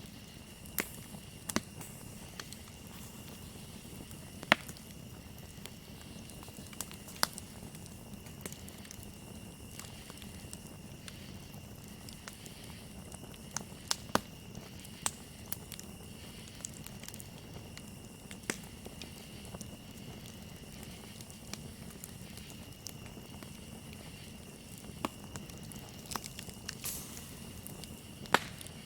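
Campfire crackling, with irregular sharp pops and snaps, a few much louder than the rest. Under it runs a steady, high-pitched chorus of crickets.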